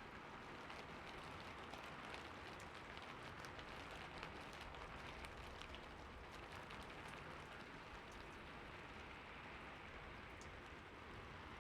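Soft, steady rain pattering on city surfaces, with many small drop ticks.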